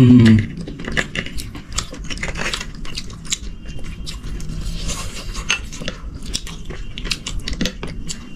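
Close-miked eating: biting and chewing food, with many quick crisp clicks and crunches. A short voice sound is heard right at the start.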